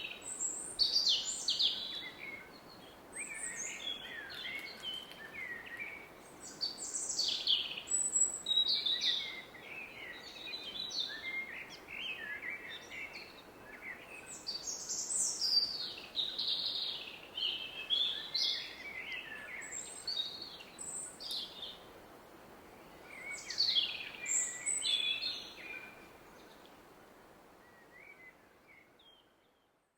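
Woodland birds singing and calling, one short phrase after another, over the steady hiss of a distant river. Everything fades out over the last few seconds.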